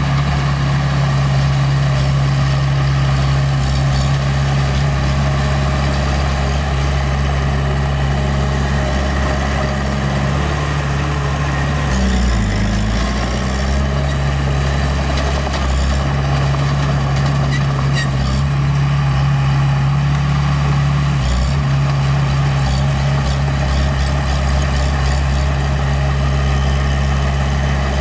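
Small bulldozer's diesel engine running steadily under work, its pitch dipping briefly and recovering about twelve seconds in.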